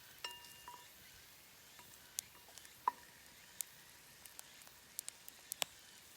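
Faint crackling and sizzling of cooking over a wood fire: scattered sharp pops at irregular times over a soft steady hiss, with a short metallic ring just after the start.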